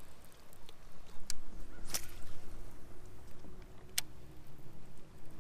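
Wind rumbling on the microphone out on open water, with three sharp clicks of gear being handled, the second the loudest, and a faint steady hum under it.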